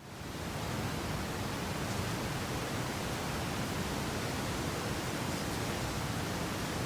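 Wind blowing through a wheat field: a steady, even hiss that fades in over the first half second.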